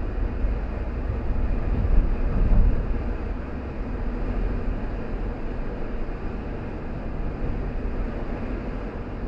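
Car driving along a road: a steady low rumble of engine and tyre noise, swelling a little louder about two seconds in.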